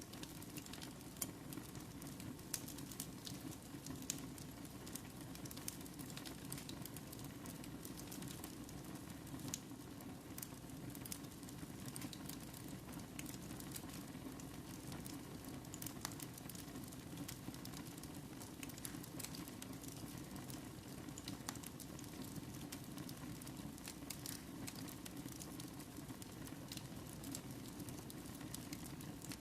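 Wood fire burning in a fireplace: a steady low rush of flame with scattered sharp crackles and pops.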